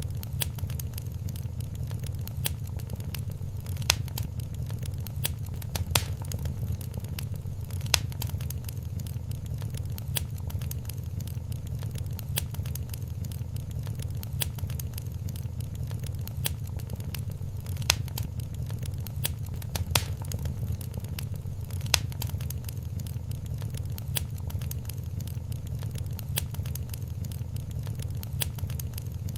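Wood fire in a fireplace crackling steadily over a low rumble, with sharper pops a few times: three about two seconds apart early on and three more likewise later.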